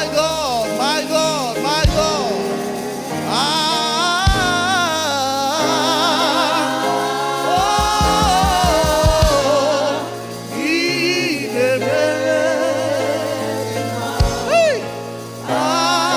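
Gospel music with a voice singing melismatic, wavering lines over sustained chords, with a few soft low beats.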